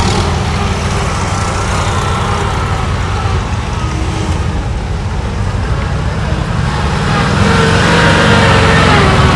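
Air-cooled flat-four engines of wartime Volkswagen Schwimmwagen and Kübelwagen running under load, the engine note rising and falling with the revs, getting louder in the last couple of seconds.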